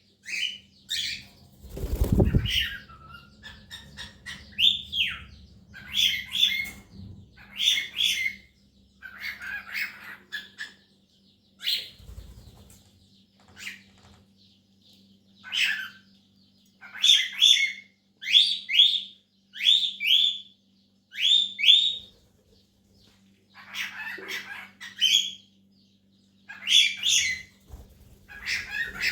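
Cockatiels chirping: many short, harsh, high calls, some sliding down in pitch, in clusters of two to four with short gaps between. A low thump about two seconds in.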